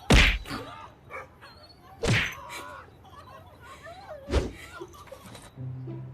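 Three heavy thuds, about two seconds apart.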